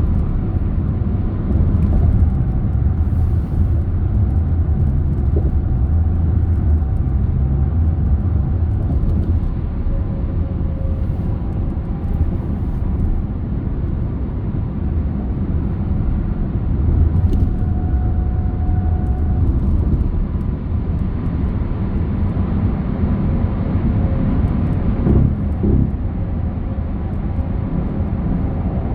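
Car driving along a road: a steady low rumble of engine and tyres, with faint tones rising and fading now and then.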